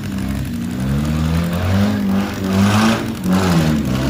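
Four-cylinder demolition derby car engines revving hard as the cars accelerate around the arena, the pitch rising and falling repeatedly and dipping briefly about three seconds in.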